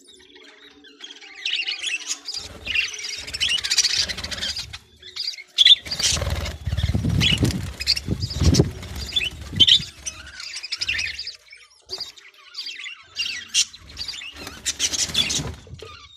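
Budgerigars chirping and squawking in many short high-pitched calls, coming in clusters. There is also a low rumbling noise in the middle, the loudest part.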